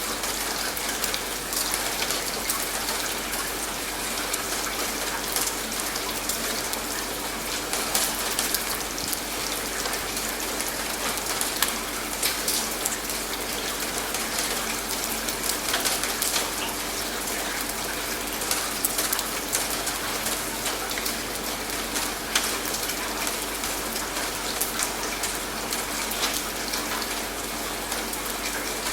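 Steady rain falling, an even hiss with many small, sharp drop hits throughout.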